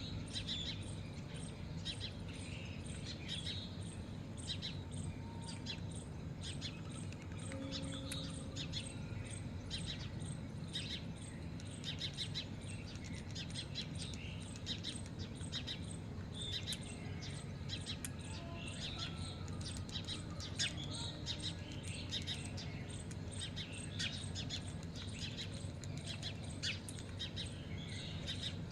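A group of birds chirping, many short overlapping chirps all through, over a steady low hum.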